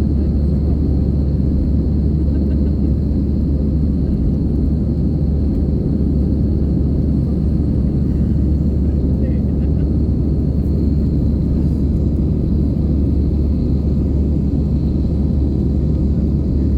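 Steady, loud, low-pitched noise of an airliner's jet engines and airflow, heard inside the passenger cabin in flight, with a faint steady high tone above it.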